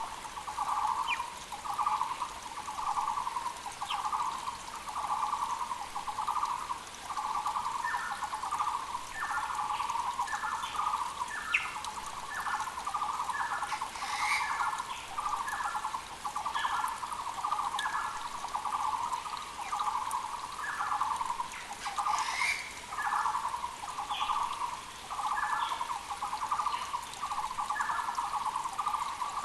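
Muller's barbets (Taiwan barbets) calling a long run of evenly repeated low notes, more than one a second, with a second series of higher notes joining from about a quarter of the way in. Other birds give brief higher calls twice, and a creek runs faintly underneath.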